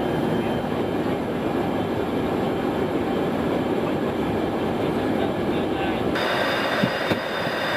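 Steady noise inside a Boeing E-3 Sentry with its engines running. About six seconds in the sound suddenly turns brighter, and two short clicks come near the end.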